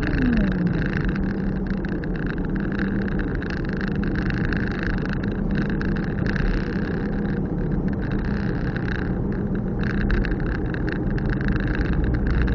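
Car driving on an open road, heard from inside the cabin: steady engine hum and tyre-and-road noise, with a short falling tone right at the start.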